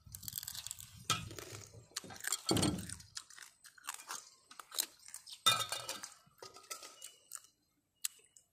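Close-up chewing of raw baby crabs: irregular crackly crunches of the small shells between the teeth, loudest about five and a half seconds in. It goes almost quiet near the end.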